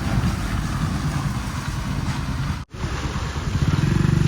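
Heavy machinery's diesel engine running with a steady low throb, with wind noise on the microphone. The sound drops out for a moment a little past halfway, then the engine comes back louder.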